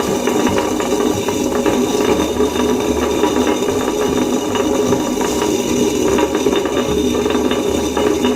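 Amirthaa tilting wet grinder running, its stone rollers turning in the drum over dry, unsoaked rice, a steady machine hum with continuous rattling of grains. It is the first rough grind on new stones, run to wear off stone dust and grit.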